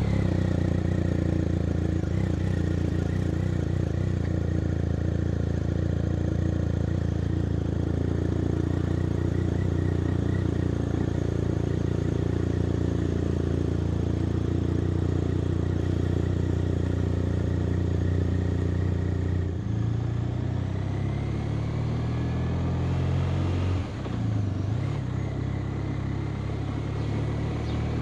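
BMW R 1250 RT's boxer twin idling steadily just after starting. After about 19 seconds it pulls away, the engine note rising as it accelerates, with a brief dip for a gear change a few seconds later before it rises again.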